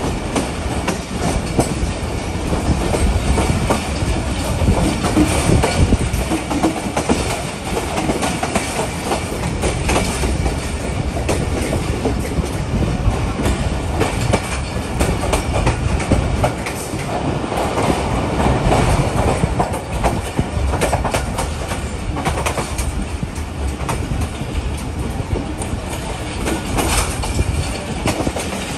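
Passenger train running along the track: a steady rumble with the clickety-clack of wheels over rail joints.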